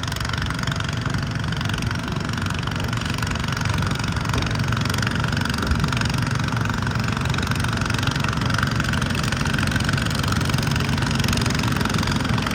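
Wheel Horse garden tractor's engine running steadily.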